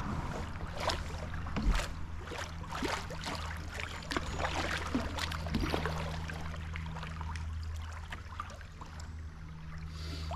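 Water splashing and dripping irregularly around a kayak on a river, thickest in the first half, over a steady low hum.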